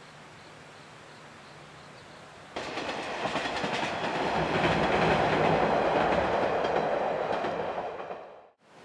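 Faint outdoor background. About two and a half seconds in it cuts abruptly to Sanriku Railway diesel railcars passing on the track, with wheels clacking over the rail joints. The sound swells, then fades away near the end.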